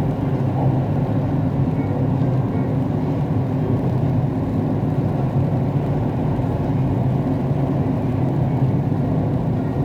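Siemens Inspiro metro train running between stations, heard from inside the car: a steady rolling rumble from wheels and traction equipment.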